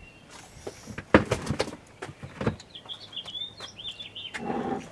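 A few sharp knocks and clatters, the loudest just after a second in, then a small songbird chirping a quick run of high notes, and a short low voice-like sound near the end.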